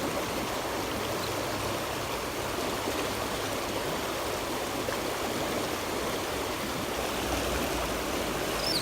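Small creek's water flowing and burbling steadily, an even rushing sound, with a couple of faint high chirps near the end.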